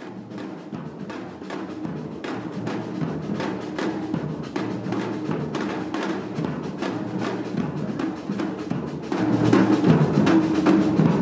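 Music driven by drums: a fast run of drum hits over steady low sustained tones, building in loudness and stepping up about nine seconds in.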